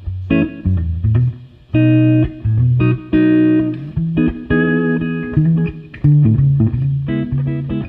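Clean electric guitar from a 1972 Gibson Les Paul Custom on its neck humbucker, played through a Fender Blackface amp emulation with compression and slap reverb: a slow run of plucked single notes and chords, each left to ring out. It is a warm, slappy jazz tone with little treble.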